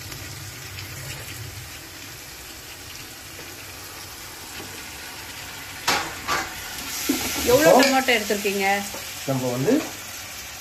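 Chopped tomatoes sizzling in hot oil and ginger-garlic paste in a large pot as they are tipped in and stirred. About six seconds in there is a knock and the sizzle gets louder, and a voice comes in near the end.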